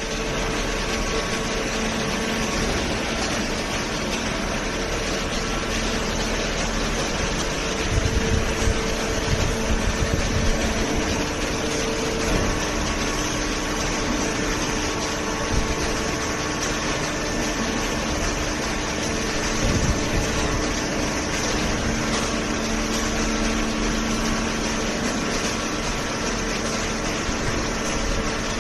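Hydraulic cardboard baler running: a steady hum from its electric motor and hydraulic pump, with some louder knocks about eight to eleven seconds in and again around twenty seconds.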